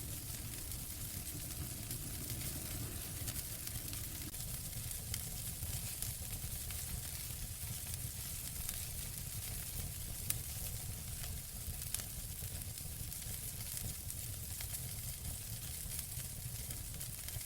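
Wood fire burning in a fireplace: a steady hiss and low rumble of flames with frequent small crackles and pops, two a little sharper about ten and twelve seconds in.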